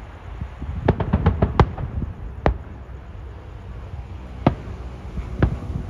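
Fireworks bursting: a quick run of about six sharp bangs around a second in, then single bangs every second or two, over a steady low background rumble.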